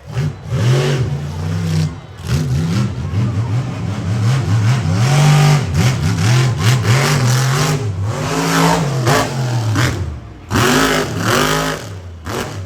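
Monster truck engine revving hard, its pitch climbing and falling repeatedly as the throttle is worked, with short lifts about two seconds in and about ten seconds in.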